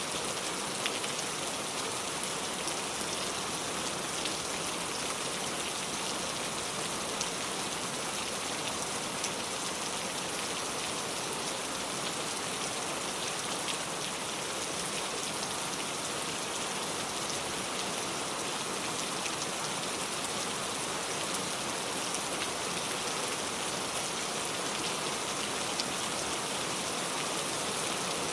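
Steady rain falling, an even hiss with many small drops ticking on a surface, unchanging throughout.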